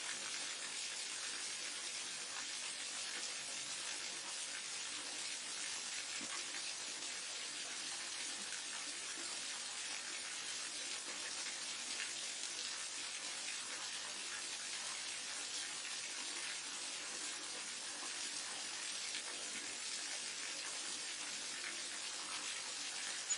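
Waterfall on a mountain stream, water falling and splashing in a steady, even hiss.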